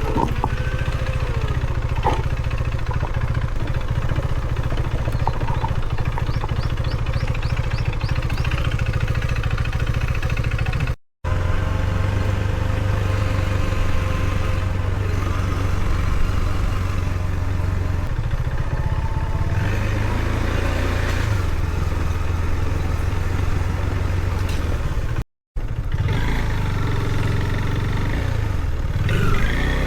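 Husqvarna Svartpilen 401's single-cylinder engine running steadily as the motorcycle is ridden, with the sound dropping out to silence briefly twice.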